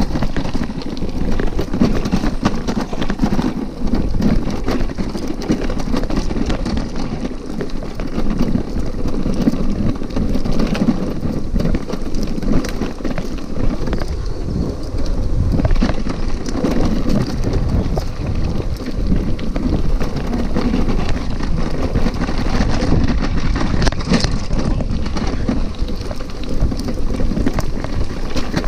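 Bicycle rolling over a rough dirt trail: a steady rumble with constant rattling and small knocks as the bike and the bag-mounted camera jolt over the bumps and roots.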